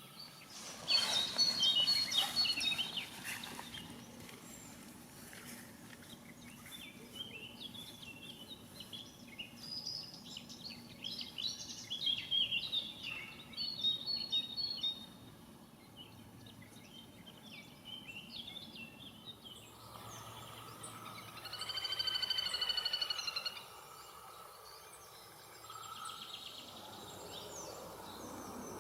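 Songbirds singing outdoors: a series of high, quick chirping and warbling phrases, loudest about a second in, followed about twenty seconds in by a longer, rapidly trilling song.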